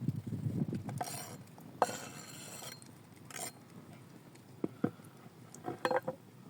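Utensils clinking and knocking against cookware, with a few short scraping hisses between them. The last clinks come in a quick cluster near the end.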